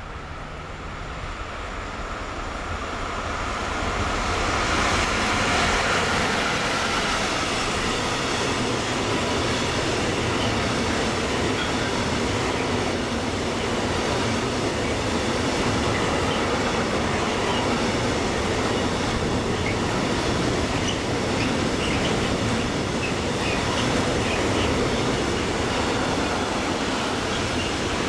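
A container freight train approaching and then passing close by: the sound grows over the first five seconds as the locomotive arrives, then settles into the steady running noise of the wagons' wheels on the rails, with a few faint high squeaks midway.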